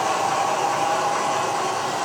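H0 model train running on the layout: a steady, even running hum with a mid-pitched whine.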